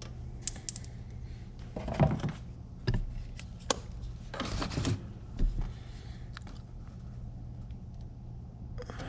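Scattered small clicks and rustles of hands working with wires and test tools, over a steady low hum.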